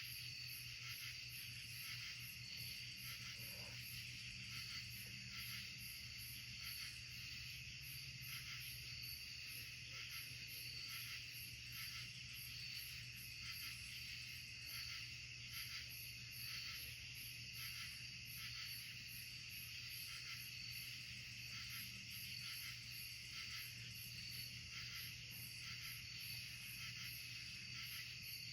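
Night-time insect chorus in woodland: a faint, steady, high-pitched trilling that pulses rapidly and evenly throughout, over a low steady hum.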